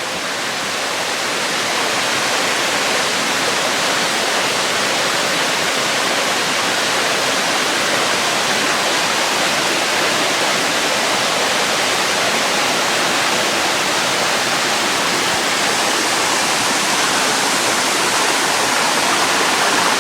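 Waterfall's steady rush of falling water, growing a little louder over the first two seconds.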